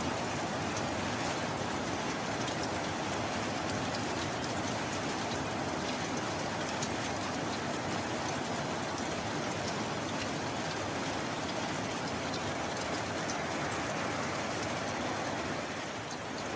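Steady rain falling, a dense even hiss with scattered sharp drop ticks, easing slightly for a moment near the end.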